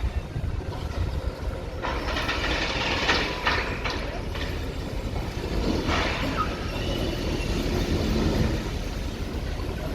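Demolition excavator at work: a steady machine rumble with clattering and crunching of debris, loudest in a few knocks a few seconds in and again about halfway through.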